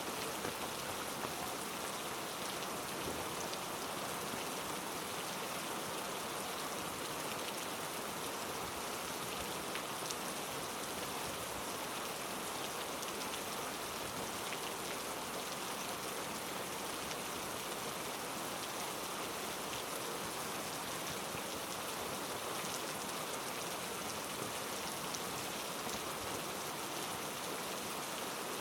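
Heavy rain falling steadily, with scattered raindrops ticking through a constant hiss.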